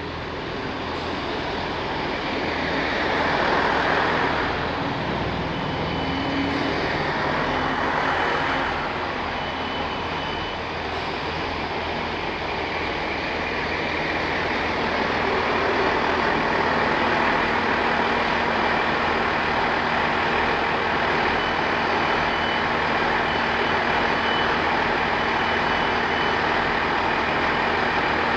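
Diesel passenger train at the station: a loud, steady engine and rail noise that builds over the first few seconds and then holds, with a faint high tone coming and going.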